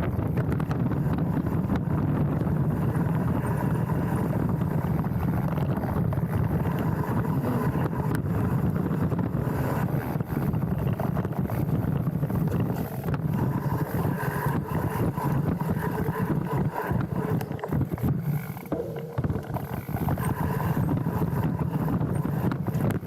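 Specialized Stumpjumper mountain bike riding down a dirt trail, heard from a camera on its handlebar: a steady rumble of tyres and wind with scattered rattles and knocks from the bike.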